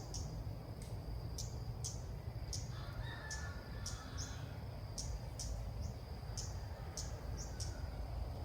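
Small songbird giving short, high chirps over and over, about two a second, against a steady high insect drone. A rooster crows faintly in the distance about three seconds in.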